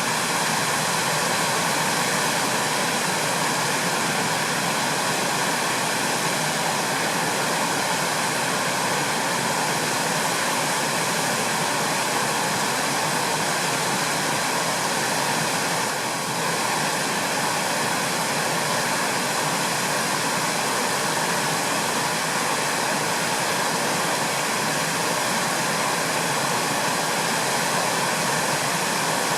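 Steady rushing of flowing water, a continuous even roar that holds unchanged throughout.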